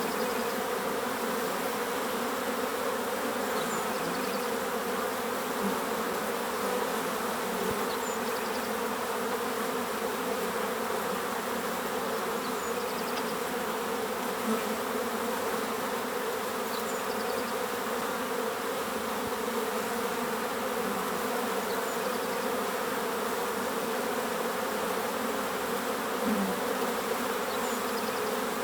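Many bees buzzing together in a steady, even drone, with faint short bird calls every few seconds.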